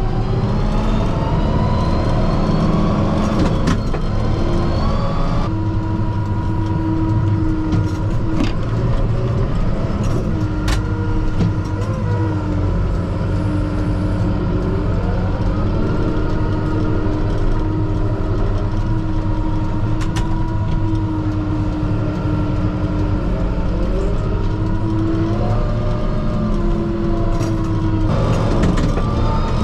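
Kubota M5-091 tractor's four-cylinder turbo-diesel engine running steadily, heard from inside the cab, its pitch rising and falling as the tractor works. A few sharp knocks sound over it.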